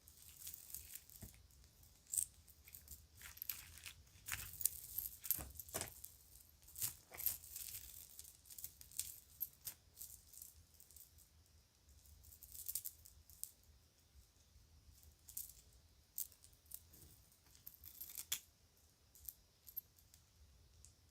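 Children's toy jewelry being handled, with irregular clusters of small clicks, clinks and jingles and bright, short ringing, broken by brief pauses.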